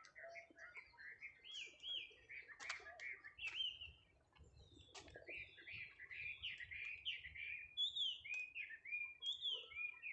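Small birds chirping and singing: runs of quick, high, rising-and-falling notes that go on throughout, with a couple of sharp clicks in between.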